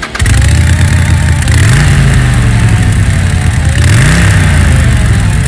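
Engine running loud and revving, its pitch rising twice, about a second and a half in and again near four seconds.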